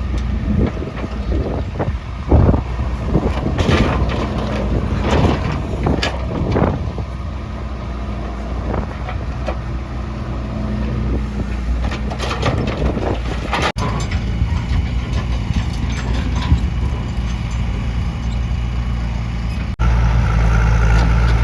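Diesel engines of a JCB 3DX backhoe loader and farm tractors running steadily, with clanks and knocks through the first seven seconds or so. Near the end the engine sound jumps louder.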